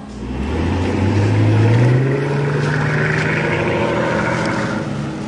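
Mercedes-Benz S65 AMG's twin-turbo V12 engine, its note climbing over the first two seconds and then held at a raised, steady speed.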